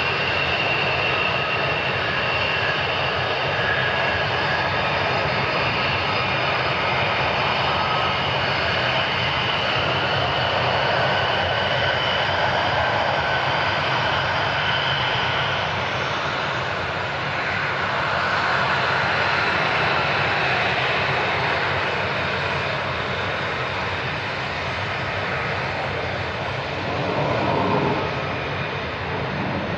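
Fighter jet engines running loud and steady, a dense roar with a high whine over it through the first half. The sound eases slightly near the end.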